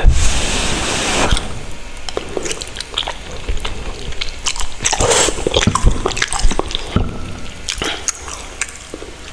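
Close-miked mouth sounds of eating spicy ramen noodles. A long wet rush of noodles drawn in at the start and again about five seconds in, with wet chewing clicks between.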